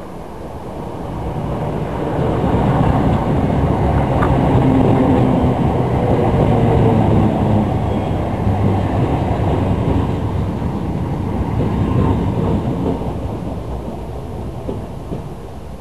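Electric commuter train moving through the station, a steady rumble with a low hum that builds over the first few seconds, holds, then slowly fades.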